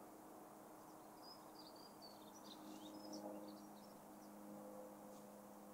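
Near silence with faint birdsong: a small bird's quick, high chirps for a couple of seconds near the middle, over a faint steady hum.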